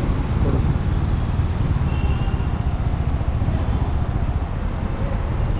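Steady low rumble of a motorcycle ride in road traffic: the bike's engine and wind on the camera microphone, with a couple of faint short high tones about two seconds in.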